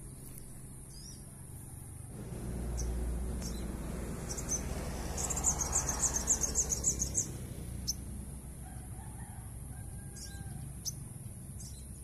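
A small songbird calling: a fast run of high chirps, about five a second for some two seconds midway, with single high chips scattered before and after. A steady high insect hiss and a low rumble run underneath.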